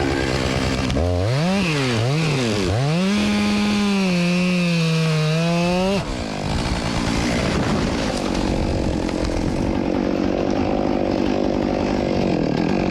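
Chainsaw engine revved up and down several times, then held at high speed for about three seconds before dropping off about six seconds in; after that it runs on with a noisier, less even sound.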